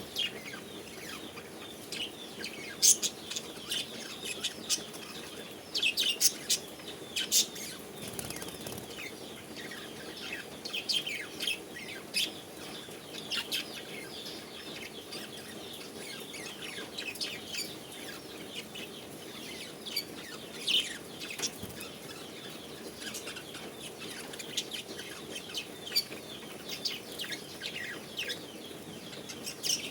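Many birds calling: a busy stream of short, quick chirps and squawks, scattered and overlapping, with a few sharp clicks and a faint steady hum underneath.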